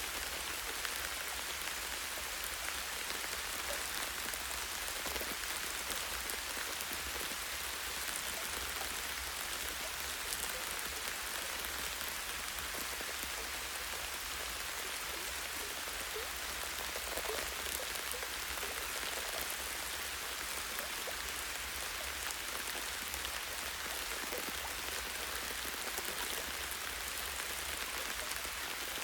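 Light rain falling on tree leaves and branches: a steady hiss of many drops, with single drops ticking through now and then and a faint low rumble underneath.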